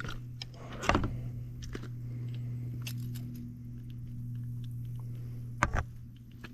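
A steady low hum runs throughout, with a few short knocks and clicks of handling gear, the sharpest about a second in and near the end.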